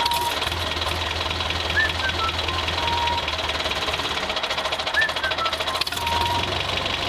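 Small motor and gears of a homemade toy tractor running steadily with a rapid fine clatter and a low hum. A short chirp followed by a held tone repeats about every three seconds.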